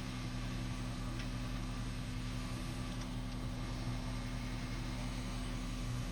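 Steady mechanical hum with constant low tones, unchanging throughout.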